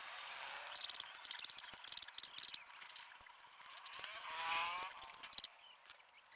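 Cricket chirping in short, rapidly pulsed high trills, with a pitched call that rises and falls about four seconds in.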